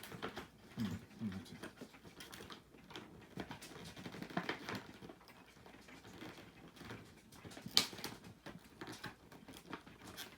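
Packaging being handled, with irregular rustling and light taps and a single sharp click a little before eight seconds in.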